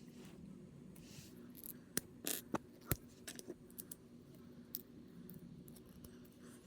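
Small plastic parts of a snap-together figure kit clicking as they are handled, snipped and pressed together: a cluster of sharp clicks about two to three seconds in, with a few lighter ones later, over a faint steady hum.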